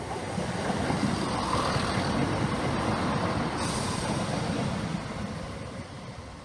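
A Class 170 Turbostar diesel multiple unit passing close by on the near track: a rumble of wheels on rails and underfloor diesel engines that builds, holds for a few seconds, then fades as the train moves away. A sharper hiss cuts in suddenly a little past halfway.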